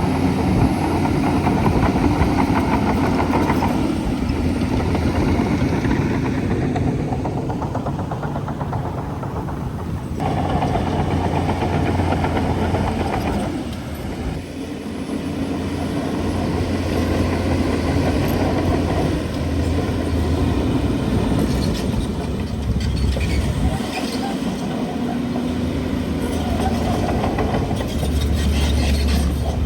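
Heavy diesel engine of a crawler bulldozer running and changing load. In the last third, the metallic clatter of its tracks becomes more prominent.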